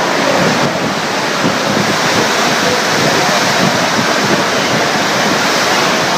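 A violent storm, heard as a loud, steady rush of wind and rain, with wind buffeting the microphone.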